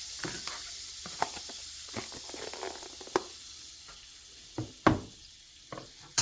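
Butter sizzling in a hot frying pan, a steady hiss that fades gradually, with scattered clicks and knocks of utensils against the pan, the loudest a little before five seconds and at the end.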